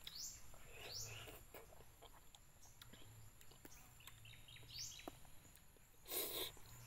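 Faint bird chirping: a handful of short, quick rising chirps. A brief rustling noise comes about six seconds in.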